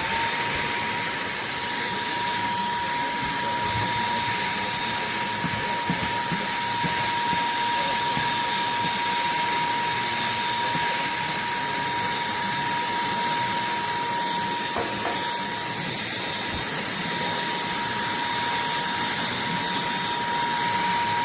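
TANYO cordless handheld vacuum cleaner running steadily: a constant high motor whine over the rushing hiss of its airflow.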